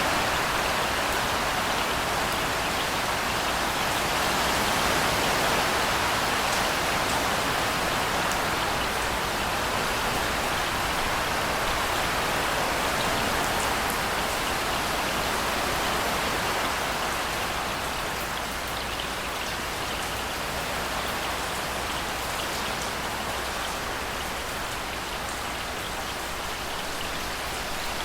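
Steady rain falling and pattering on a surface, an even hiss with scattered drop ticks, easing slightly about two-thirds of the way through.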